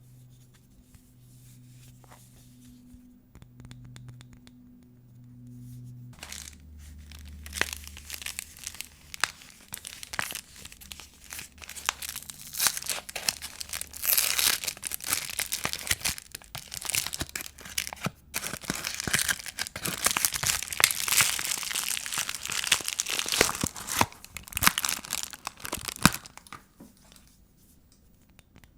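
Wrapping of a bar of vintage soap being torn open and crumpled: a dense run of crinkling and tearing that starts about six seconds in and stops a couple of seconds before the end.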